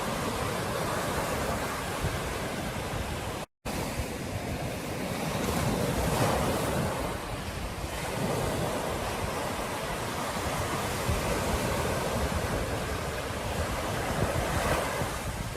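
Ocean surf breaking on a beach, a steady wash that swells and eases, with a brief total dropout about three and a half seconds in.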